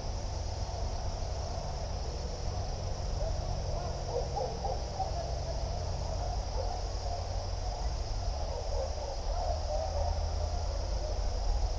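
Nature soundscape: a steady high-pitched insect drone, with animal calls wavering in pitch that come and go, thickest about four seconds in and again near nine seconds, over a constant low rumble.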